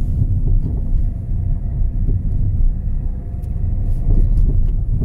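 Low road and running rumble inside a Peugeot 207's cabin on the move, with a few faint clunks from the front suspension. The clunking is the sign of play in a worn lower control-arm ball joint.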